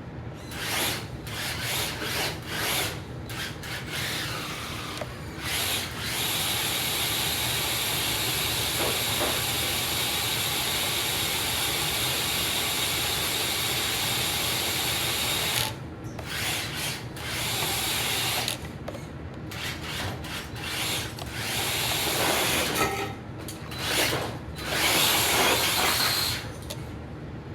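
Traxxas TRX-4 RC crawler truck's electric motor and geared drivetrain whirring in short throttle bursts, then running steadily for about ten seconds while spinning a donut, then in bursts again.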